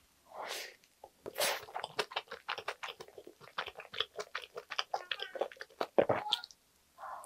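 Close-miked mouth sounds of a person eating a soft egg and crab-stick sandwich. There are two bites in the first two seconds, then quick wet chewing smacks that stop about six and a half seconds in.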